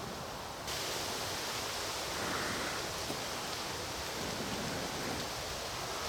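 Steady hiss of rain falling, which steps up suddenly and grows brighter under a second in, with a few faint ticks over it.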